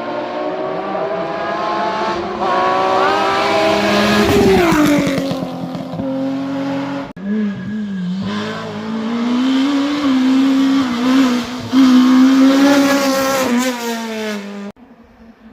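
Historic rally car engines at high revs. The first climbs in pitch, then drops away sharply about four seconds in. After a sudden break about seven seconds in, a second run revs hard with a wavering pitch and cuts off near the end.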